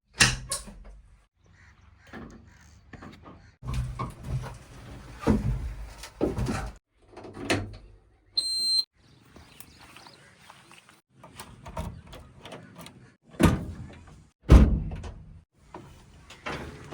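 JCB 3DX backhoe loader at work: its diesel engine runs under repeated loud clanks and thuds of metal and dumped mud, the two loudest near the end. A short high beep sounds about halfway through.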